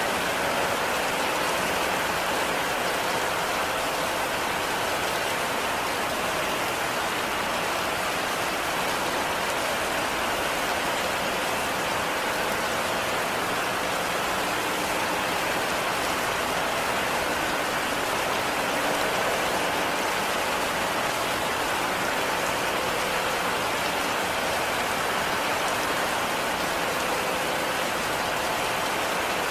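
Heavy rain falling steadily, an even dense hiss of drops with no breaks or distinct impacts.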